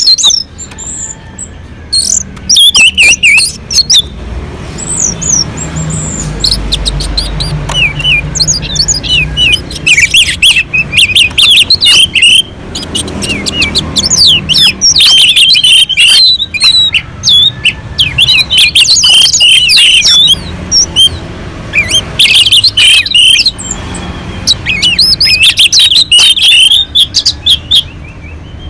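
Orange-headed thrush singing loudly in full song: quick, varied runs of high whistled and chattering phrases, broken by short pauses.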